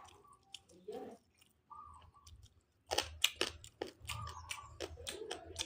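Close-miked mouth sounds of a person eating fish: chewing, with a quick run of sharp lip smacks and clicks about three seconds in.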